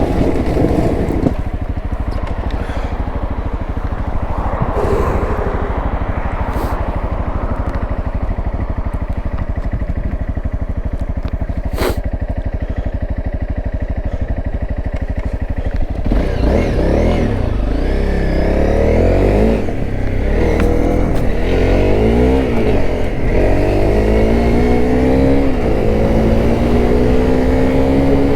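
Honda CRF250L's single-cylinder four-stroke engine running steadily at low revs for the first half. From about halfway it is revved hard again, its pitch climbing and falling several times as the bike accelerates. There is a single sharp click near the middle.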